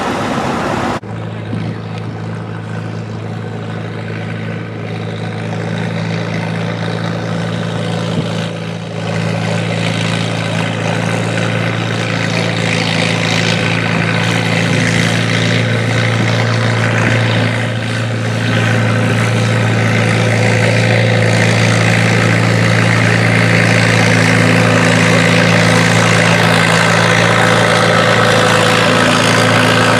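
Antique tractor engine running steadily, growing gradually louder, with an abrupt change in the sound about a second in.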